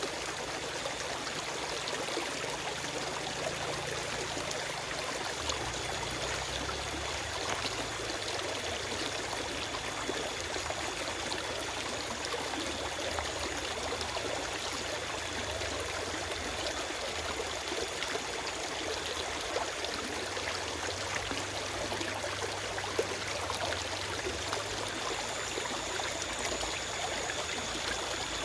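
Forest stream flowing steadily over stones: an even rush of water with small splashes and trickles through it, and no birdsong.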